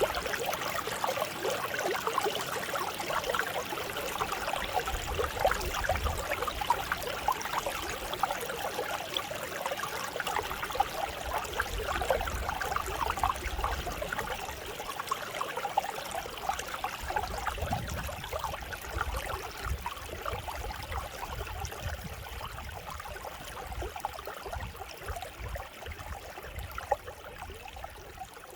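Mountain stream flowing over rocks, a steady babbling and trickling with a low rumble coming and going underneath. It grows gradually quieter over the last several seconds.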